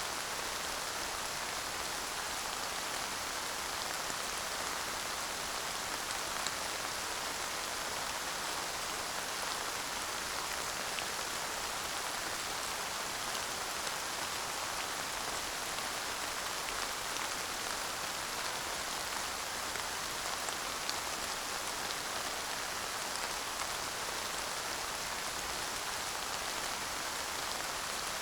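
Steady light rain falling, an even hiss with occasional faint drop ticks.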